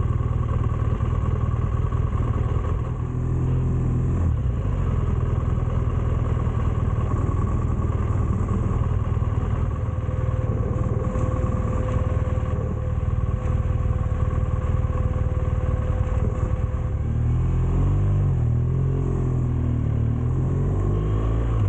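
Motorcycle engine running with a steady low note.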